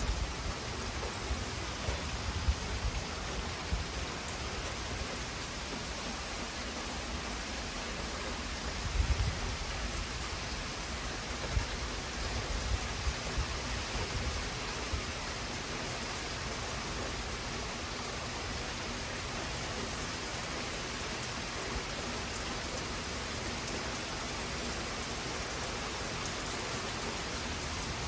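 Heavy thunderstorm rain falling steadily, a dense even hiss. A few low rumbles come in the first half, the strongest about nine seconds in.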